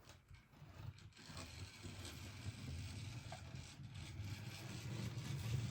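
Model steam locomotive 7501 running on the track, a low motor-and-wheel rumble with light rattling that grows steadily louder.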